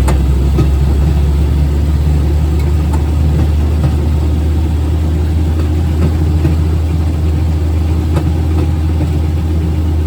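Railroad speeder's engine running steadily and loudly, with a few sharp clicks over it.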